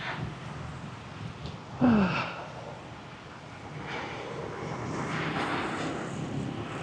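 Steady street traffic noise with a vehicle swelling past in the second half. About two seconds in there is a short, loud, falling voice sound, like a sigh.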